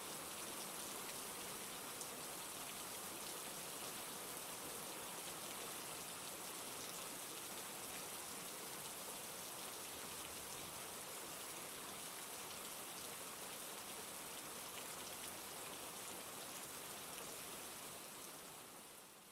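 Steady rain falling, an even hiss with a fine patter of individual drops, that fades down near the end.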